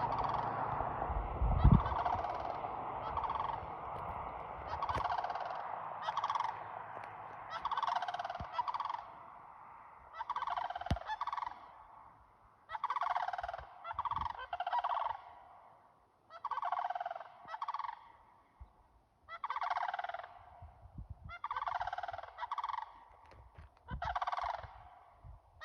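Two large birds calling over and over, a run of loud, harsh calls about one every second or so, with gaps between groups. A single sharp thump about two seconds in.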